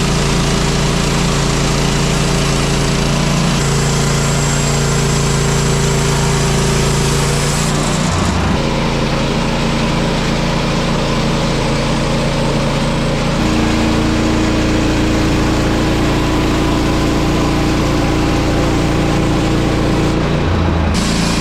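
Portable bandsaw sawmill's small gas engine running steadily. Its note steps to a different pitch about eight seconds in and again about thirteen seconds in.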